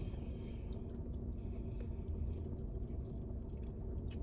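Steady low rumble of a car engine idling, with a few faint clicks.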